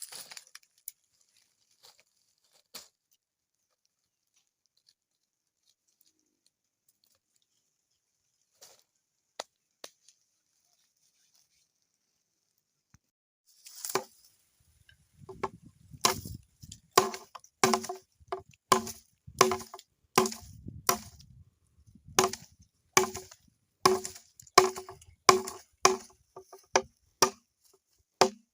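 Chopping with a blade into wood: sharp, regular strikes, about one every 0.7 seconds, each with a short ringing knock. They begin about halfway in, after a few faint scattered clicks.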